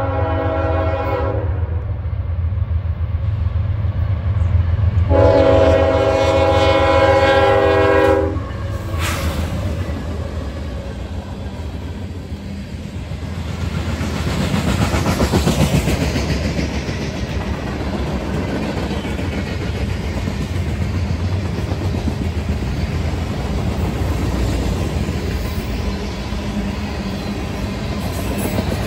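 CSX freight train passing close by: the locomotive's multi-chime air horn sounds a blast that ends about a second in and a second, longer blast from about five to eight seconds in over the diesel locomotives' low rumble. After that the long train of covered hoppers and tank cars rolls past with a steady clatter of wheels on the rails.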